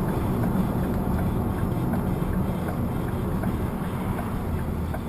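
Steady rumble of a car driving, with road and wind noise, heard from inside the cabin.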